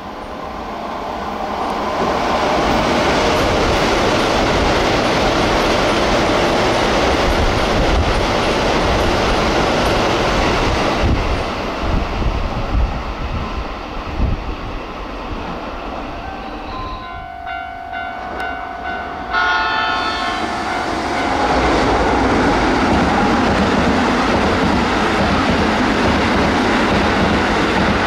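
An electric commuter train, a Toei 5500 series, passes at about 78 km/h with its wheels clattering over the rail joints, then dies away. A train horn sounds for about three seconds. Then a Keisei 3700-series electric train rushes past at about 74 km/h.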